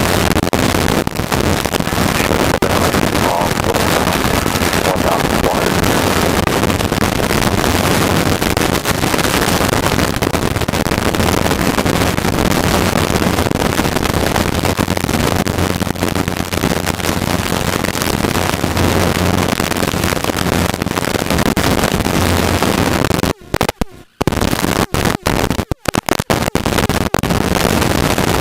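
Helicopter cabin noise in flight: the engine and rotor run as a loud, steady rush with a low hum underneath. The sound cuts out briefly several times about 23 seconds in.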